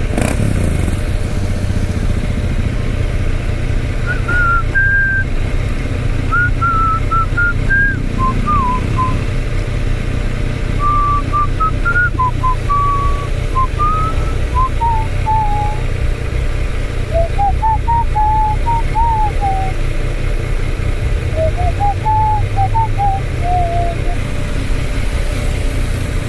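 Yamaha Tracer 900 GT motorcycle's three-cylinder engine running low and steady. From about four seconds in until near the end, someone whistles a wandering tune over it in short stepped notes.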